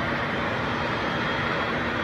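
Aircraft engine running with a steady, even drone and a faint high whine.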